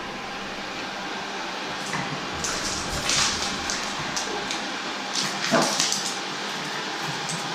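Ecovacs Deebot N79S robot vacuum running with a steady whir, while a Boston terrier gives a few short barks at it, around three and five and a half seconds in.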